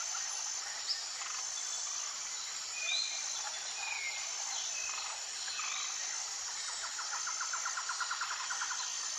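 Forest ambience: birds chirping and whistling over a steady insect hiss, with a short high note repeating about once a second and a fast rattling trill near the end.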